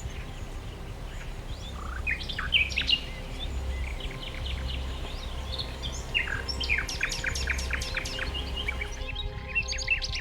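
Birds chirping in scattered short calls, with a quick run of sharp chirps about two-thirds of the way through, over a steady low rumble. Near the end, sustained tones come in.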